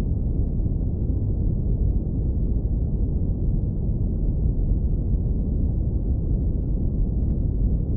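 Low-pass filtered brown noise: a steady, unchanging deep rumble with its weight at the very bottom and no high hiss.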